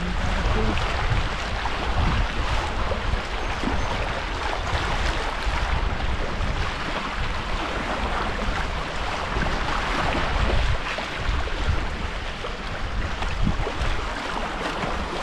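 Steady rushing of river water around a kayak running rapids on the Delaware River, with a low rumble underneath.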